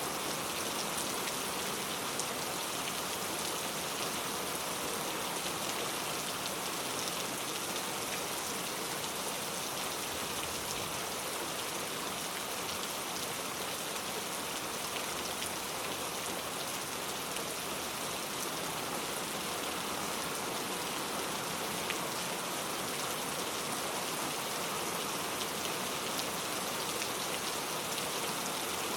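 Heavy rain falling steadily and tapping on a leaf-covered road, a dense even hiss of many drops with fine scattered ticks.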